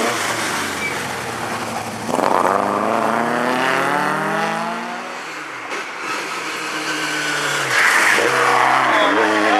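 Rally car engine accelerating hard through the gears, its note climbing and dropping back at each shift several times.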